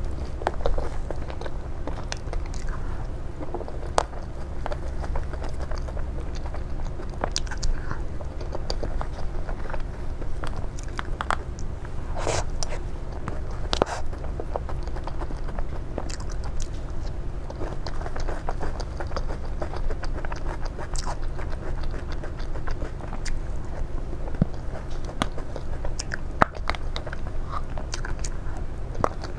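Close-miked eating: a person biting and chewing food, with many irregular crisp crunches and clicks.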